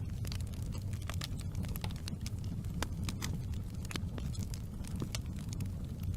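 Wood fire crackling: frequent sharp pops and snaps, several a second and irregular, over a steady low rumble of burning flames.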